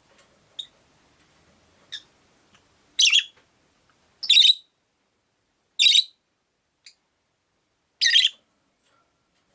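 Rosy-faced lovebird giving shrill, harsh chirping calls: two faint short chirps, then four loud calls spaced a second and a half to two seconds apart.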